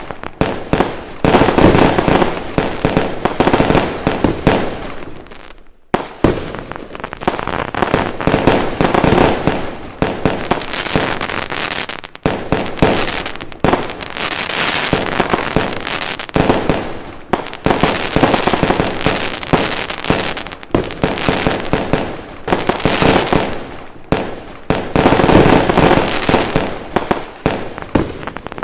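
Fireworks going off in a dense, continuous barrage of bangs and crackles. There is a sudden brief break just before six seconds in, then the barrage resumes.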